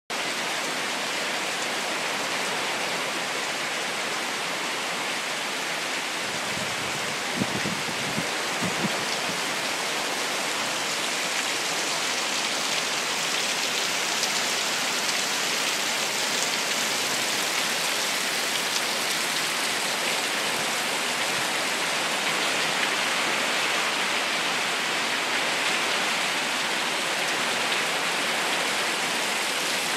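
Heavy rain pouring down, a steady hiss throughout, with a few low knocks about seven to nine seconds in.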